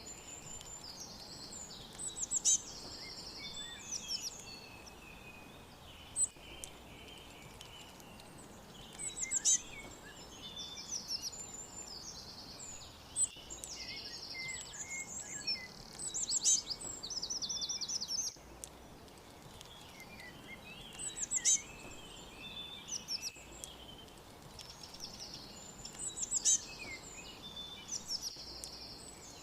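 Songbirds singing. One bird repeats a high, rapid trilled phrase every five to seven seconds, with softer chirps between, over a steady faint background hiss.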